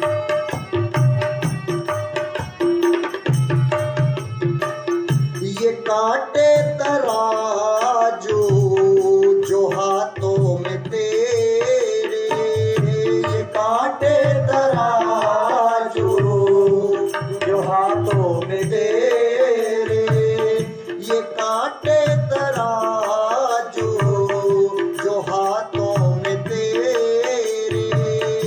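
Instrumental interlude of a Hindi devotional bhajan: tabla playing a steady rhythm, with a melody instrument joining about six seconds in.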